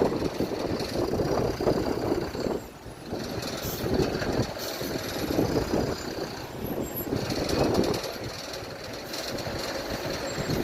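Jet aircraft engines rumbling with a crackly, uneven roar that dips briefly about three seconds in.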